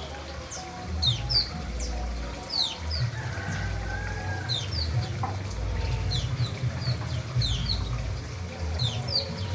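White-eyes (pleci) calling: many short, high chirps, each falling quickly in pitch, repeated every half second or so, over a steady low rumble.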